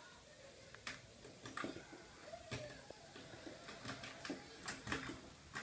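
A series of irregular light clicks and knocks, coming close together in the second half.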